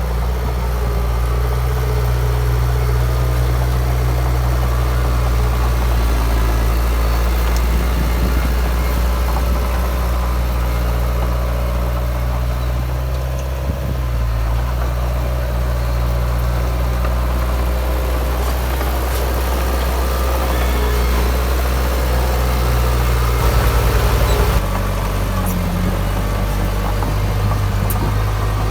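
Heavy diesel earthmoving machinery running steadily, its engine note holding level, with a brief louder surge a few seconds before the end followed by a change in pitch.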